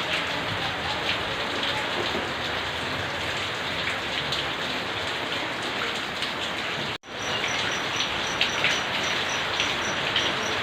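Steady rain falling on surfaces, with scattered louder drops; the sound cuts out abruptly for an instant about seven seconds in, then resumes.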